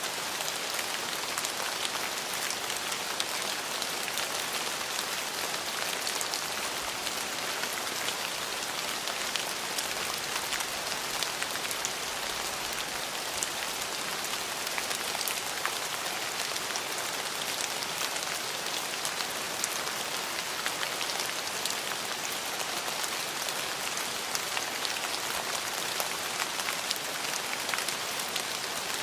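Steady heavy rain falling on a surface: an even hiss with many small drop ticks, no thunder.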